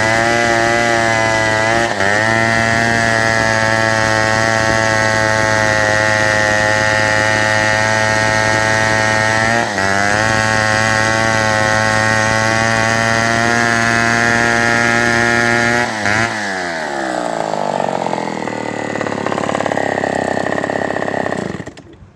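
1961 Homelite WIZ A gear-drive chainsaw with no muffler guts, stupid loud, running at full throttle through a cut on a steady high note that dips for an instant twice. About sixteen seconds in, the revs fall away and it runs lower and less steadily before cutting off near the end.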